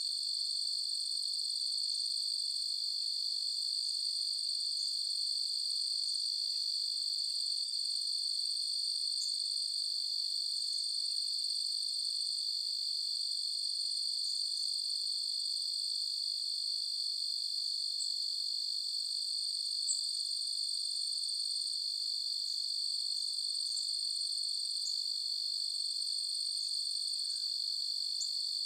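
Night chorus of crickets: a steady, unbroken high-pitched trill, with faint short chirps scattered over it.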